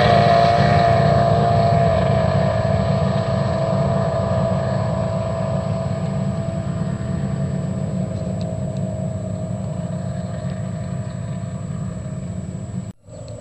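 Drag boat's Mercury engine running hard, its pitch and loudness slowly easing down. The sound cuts out for a split second near the end.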